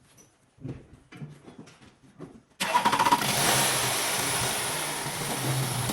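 Audi Q7 3.0 TDI V6 diesel engine cranked and started about two and a half seconds in, then running at a steady idle after its oil and filter change. Faint clicks of handling come before the start.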